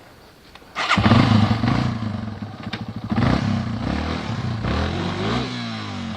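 An off-road motorcycle engine cuts in loud about a second in and keeps running close by, its revs rising and falling near the end.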